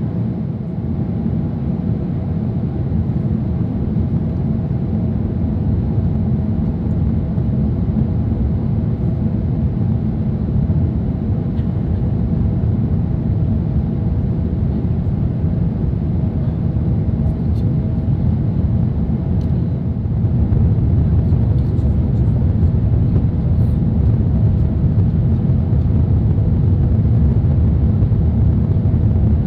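Airbus A380 cabin noise during descent: a steady low rumble of airflow and engines. It grows a little louder about two-thirds of the way through.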